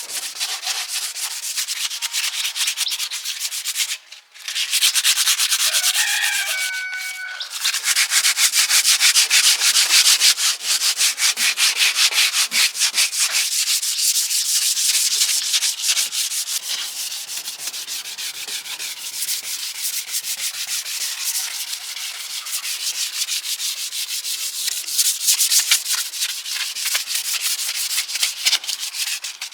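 Rapid abrasive rasping strokes against a hard surface, typical of sanding or scrubbing down a part, running steadily with a brief pause about four seconds in and a short squeak a couple of seconds later.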